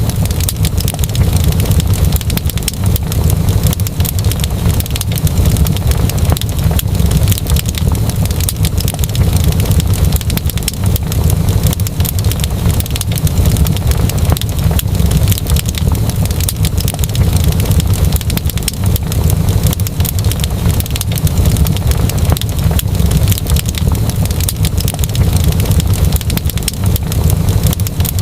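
Wood fire crackling steadily, with dense small pops and snaps over a low, even rumble.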